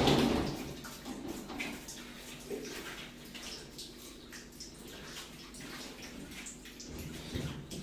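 Water splashing briefly at the start, then quieter small splashes, drips and handling noises during a pet monkey's warm-water bath.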